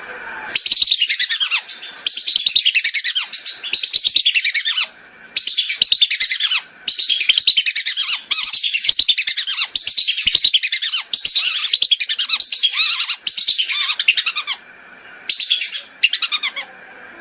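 Lesser whistling ducks calling, played as a hunting lure: runs of shrill whistles, each falling in pitch, in bursts of one to a few seconds with short breaks between.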